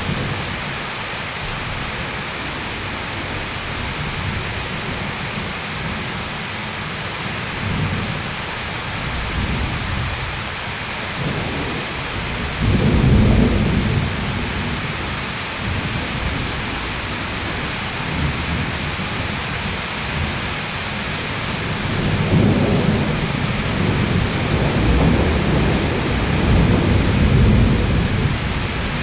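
Steady heavy rain hissing, with thunder rumbling low underneath: one roll swells a little under halfway through, and a longer rolling rumble builds again near the end.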